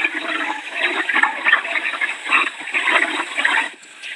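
Rushing, gusting noise of hurricane wind and rain, surging and easing and dipping briefly near the end.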